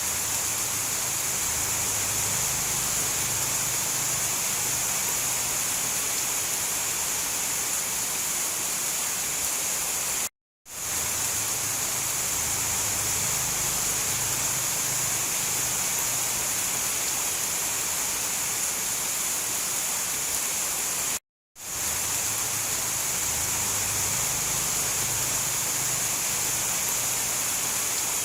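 Steady, hissy downpour of heavy rain with no thunder. It drops out completely for a split second twice, about ten seconds apart, and fades straight back in each time.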